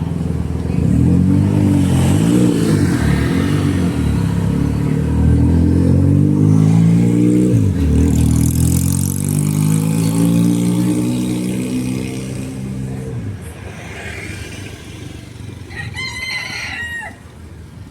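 Motor vehicle engine running close by, its pitch rising and falling as it revs and moves, fading out about thirteen seconds in. A short high-pitched call sounds near the end.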